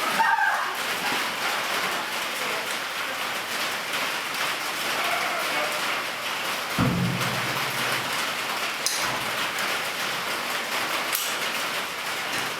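MIG welding arc crackling steadily on steel plate and tubing, with one low thud about seven seconds in.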